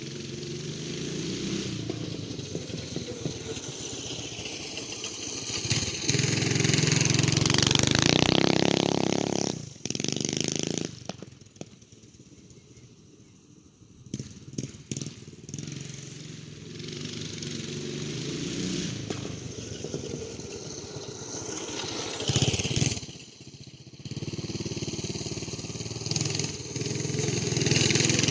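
Motovox minibike's 212 cc single-cylinder engine revving up and down under riding. It grows loud about six seconds in, fades well down around twelve seconds in, then builds again, loudest near the end.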